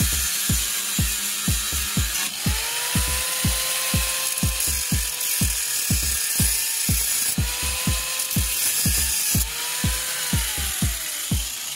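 Background music with a steady beat over an angle grinder that spins up a couple of seconds in, runs with a steady whine, dips briefly and winds down near the end. It is cutting the rivets that hold a worn lower ball joint to the control arm.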